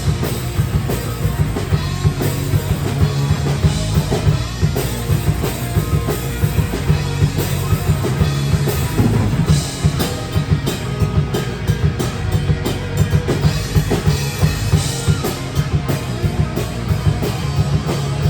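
Live rock band playing an instrumental break with no vocals, the drum kit's kick and snare driving a steady beat under bass and guitar.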